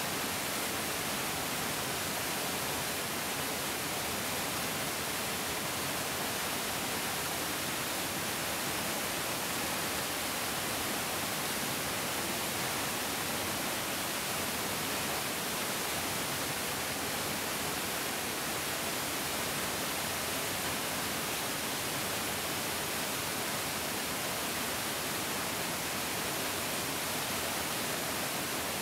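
Mountain stream rushing steadily over rocks, a constant hiss of flowing water with no change.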